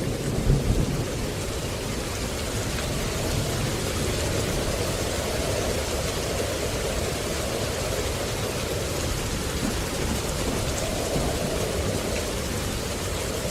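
Steady rain falling as an even wash of noise, with a brief low rumble about half a second in, like distant thunder.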